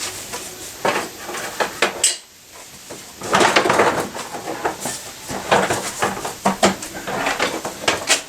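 Metal tools and parts clinking and clattering in a string of sharp knocks and rattles, with a denser stretch of rattling about three seconds in.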